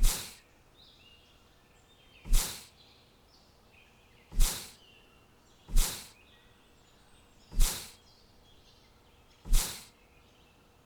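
Faint bird chirping broken by six loud, short whoosh-like bursts, each with a low thud and a quick fade, coming about every one and a half to two seconds.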